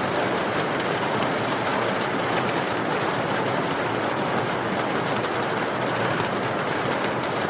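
Steady rain, an even hiss of falling water, with faint scattered crackles from a burning wood fire.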